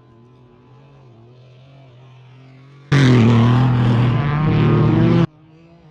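Off-road race vehicle engine, faint and steady at first. About three seconds in it is suddenly loud and close, engine and rushing noise together, for about two seconds, then cuts off abruptly.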